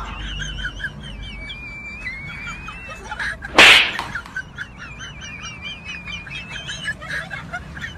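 High, quick warbling chirps like birdsong, repeating throughout, with one loud burst of noise about three and a half seconds in.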